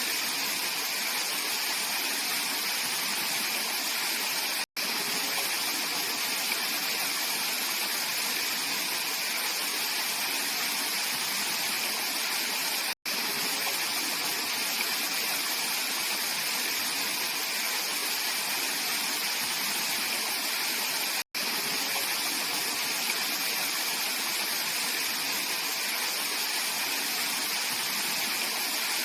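Mountain valley stream rushing steadily over rocks, interrupted three times by a momentary dropout to silence.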